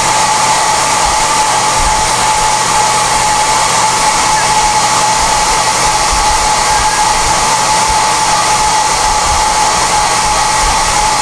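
SOUNATE high-airflow hair dryer running steadily: an even rush of blowing air with a steady whine on top.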